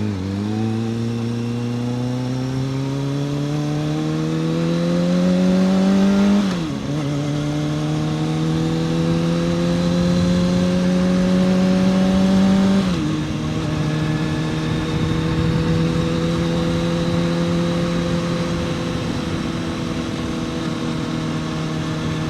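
Kawasaki ZX-6R's inline-four engine accelerating through the gears: the pitch climbs, drops at an upshift about six and a half seconds in, climbs again, drops at a second upshift about halfway through, then holds steady at cruising speed.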